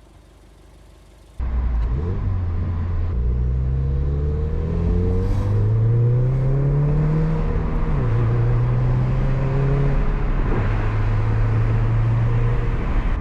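Turbocharged EJ20Y flat-four of a JDM Subaru Legacy GT pulling under acceleration. The engine cuts in about a second in and climbs in pitch for several seconds. It drops with an upshift about eight seconds in, then runs on steadily.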